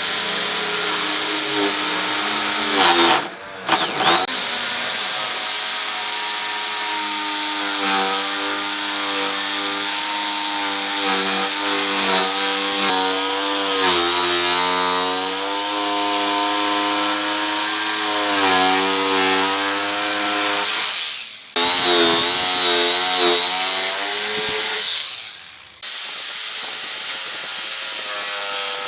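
Electric power tool running on wood with a high whine, its pitch dipping and recovering as it is pressed into the work. It cuts out briefly three times.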